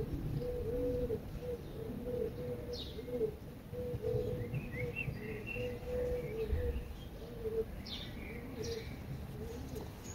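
Birds calling: a continuous series of short, low, repeated notes, with a few brief high chirps and a short twittering phrase about halfway through, over a low rumble.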